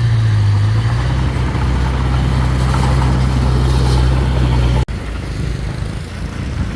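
Mini bulldozer's diesel engine running steadily with a deep, even hum. About five seconds in, the sound cuts off abruptly for an instant and then continues quieter and rougher.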